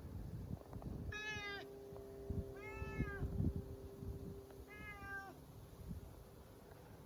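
A black cat meowing three times, each meow short and falling slightly in pitch at the end.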